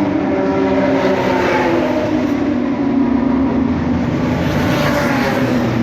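Racing car engines running on the circuit: a loud, steady engine note that slides slightly lower around the middle.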